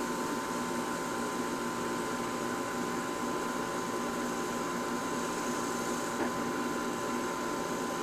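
A steady machine hum with several steady tones over an even hiss, unchanging throughout.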